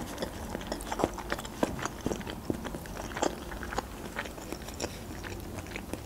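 Close-miked chewing of a mouthful of food, with many short, irregular mouth clicks and smacks.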